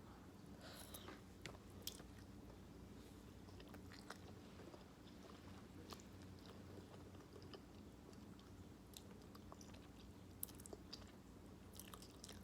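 Faint mouth sounds of a person eating ramen noodles: soft chewing with scattered small clicks and smacks, over a steady low hum.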